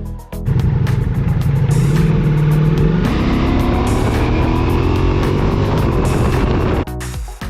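Ducati Multistrada V4 Pikes Peak's V4 engine and exhaust running hard, first at a steady pitch, then revving higher from about halfway through as it accelerates. It cuts off suddenly near the end, giving way to music.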